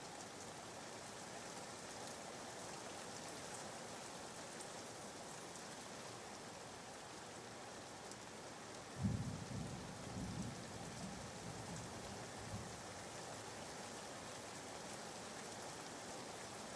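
Recorded rain falling steadily, a quiet even hiss. About nine seconds in, a brief low rumble swells up and fades away over a couple of seconds.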